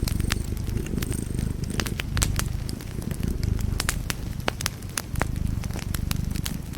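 Wood fire in a fireplace crackling, with sharp pops several times a second over a low, uneven rumble of the flames.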